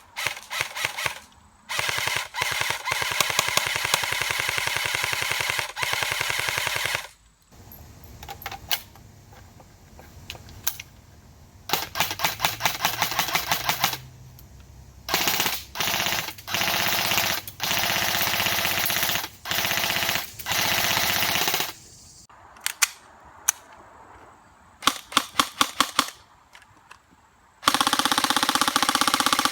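Airsoft guns firing, mostly long full-auto bursts of rapid, evenly spaced shots lasting several seconds each. These alternate with short bursts and a quick string of single shots, and a final long burst comes near the end.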